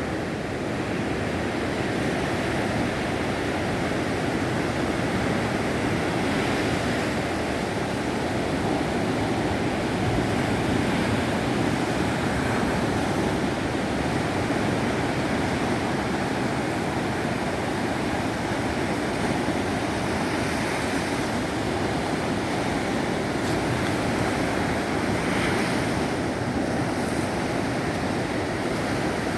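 Baltic Sea surf breaking and washing on a sandy beach, a steady unbroken wash of waves, with wind rumbling on the microphone.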